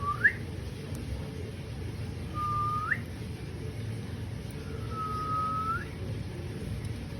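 Three clear whistles, each held on one note and then sliding sharply up at the end; the third is the longest.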